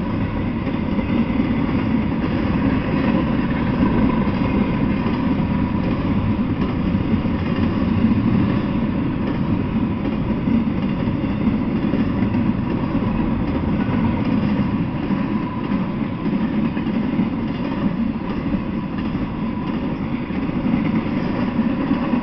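Freight train's container-laden well cars rolling past on the rails: a steady noise of steel wheels on track that holds at one level throughout.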